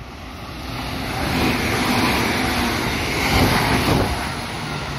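A JR West 221 series electric train running past close by: a rising rush of wheels on rails and body noise that swells to its loudest as the cars go by, then begins to ease.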